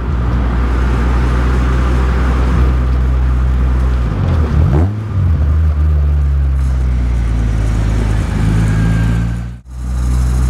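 Honda CR-Z Mugen RZ's 1.5-litre four-cylinder engine and road noise heard from inside the cabin while driving at a steady pace. The engine note dips and climbs back about four to five seconds in, and the sound drops out for an instant near the end.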